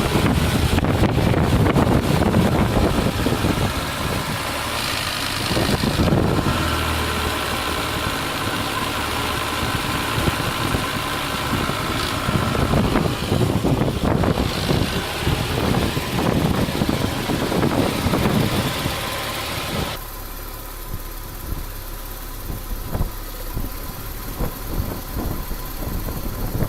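Citroën BX engine running at idle, its level swelling and easing a few times, then quieter and steadier from about twenty seconds in.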